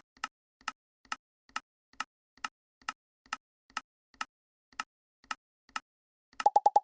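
LEGO pieces clicking into place one after another, evenly spaced at about two a second. Near the end this turns into a quicker run of louder, pitched pops.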